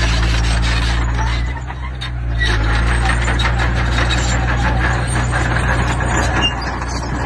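Heavy diesel construction machine engine running steadily under a dense clatter of stone and metal. The engine note and the clatter drop briefly about two seconds in, then pick up again.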